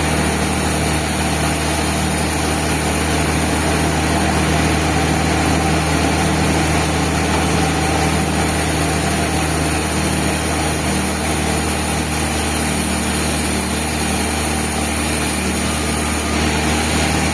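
Band sawmill running steadily: a constant machine hum, even in pitch and level throughout.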